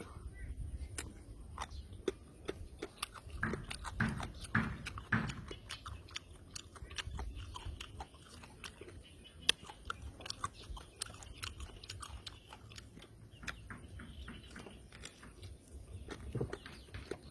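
A man chewing and biting raw fish and papaya salad, with a steady run of small clicks and a few louder bites about four to five seconds in.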